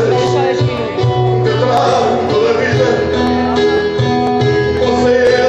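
Music led by plucked guitar, with sustained notes over a low bass line.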